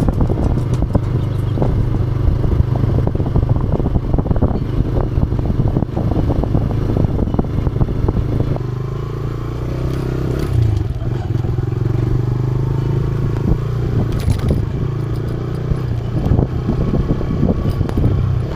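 TVS Raider 125's single-cylinder four-stroke engine running steadily on the move, with clattering knocks and rattles from the bike jolting over a rough trail. The engine note eases a little about halfway through.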